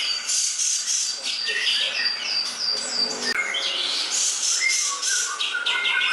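Green leafbird (cucak ijo) singing a fast, varied song of rapid high chirps and short whistles, with a few lower whistled phrases near the end.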